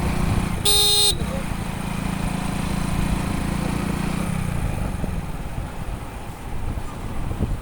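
A motorcycle engine running steadily on the road, with one short, loud horn blast about a second in. The engine note drops away about four seconds in, leaving road and wind noise.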